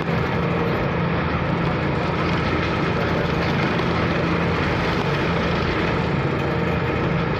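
A car ferry's engine running with a steady low hum under an even rushing noise.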